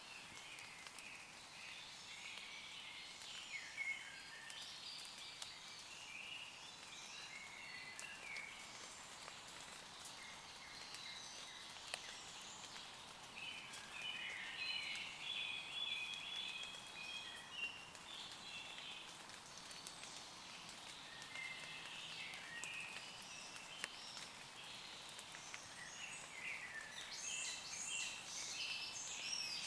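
Light rain pattering on leaves, with scattered drops ticking, while several woodland birds sing and chirp throughout in short, high phrases.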